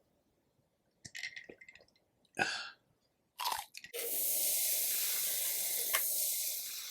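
Close-miked chewing and crunching of rotisserie chicken in a few short bouts, followed about four seconds in by a steady hiss that begins to fade near the end.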